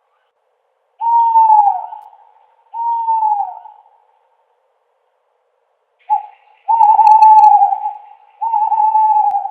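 Owl hooting: a series of clear, fairly high single hoots, the first two dipping in pitch at the end, then after a pause a short note followed by two longer hoots.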